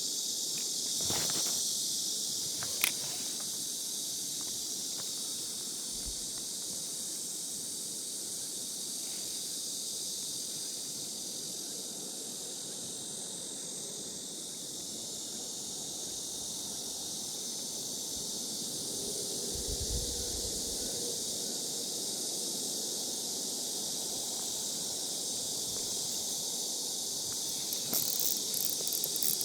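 Steady high-pitched chorus of summer insects over a low, steady rush of stream water, with a few light clicks about a second in, near three seconds in, and in a cluster near the end.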